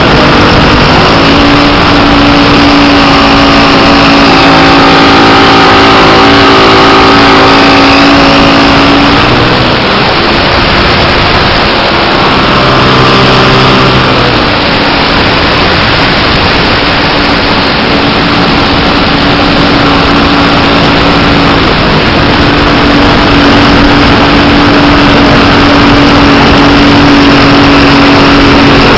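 Engine and propeller of a 1/5-scale Piper Cub RC model aircraft, heard from a camera on the wing strut, running continuously under heavy wind rush. The engine note shifts in pitch around ten seconds in and again around fourteen, then settles back to a steady tone.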